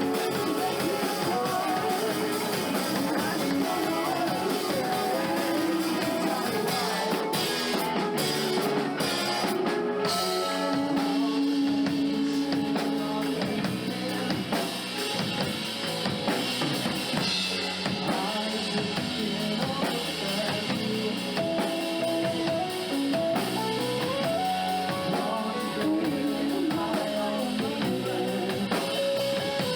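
A live rock band playing a song, with a drum kit keeping a steady beat under guitar.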